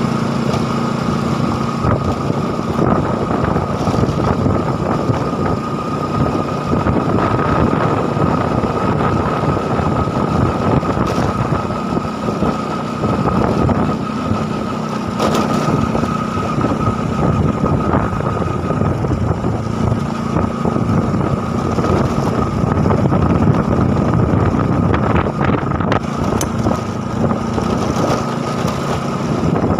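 A vehicle engine running steadily while on the move, with wind buffeting the microphone.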